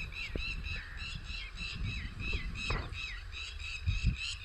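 Birds calling over and over: short high chirps, about two to three a second, each dipping in pitch, over a low uneven rumble.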